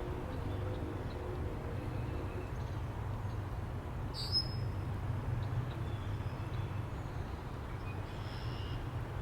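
Steady low wind rumble with a few birds chirping faintly over it: one short, sharp chirp about four seconds in and softer calls near the end.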